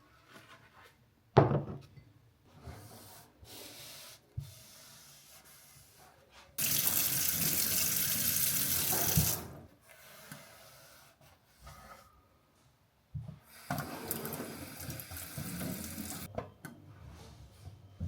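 A water tap running into a sink twice: a strong flow for about three seconds, then a gentler one for a couple of seconds, with a sharp knock and small clinks of handling before it.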